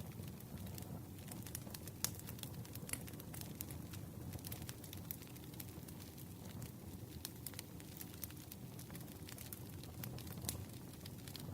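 Campfire crackling: irregular sharp pops and snaps, several a second, over a low steady rush of burning wood.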